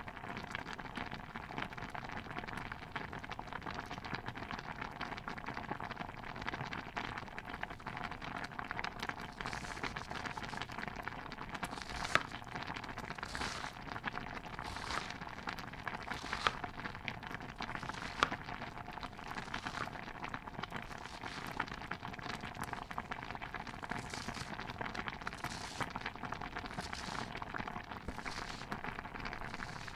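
Stew bubbling in a pot as a dense, steady crackle. From about a third of the way in, louder pops come every second or two, with a few sharp clicks among them.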